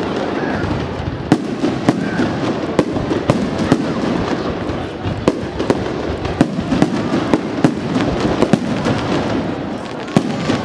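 Aerial fireworks display: a rapid string of shell bursts, several sharp bangs a second, over continuous crackling.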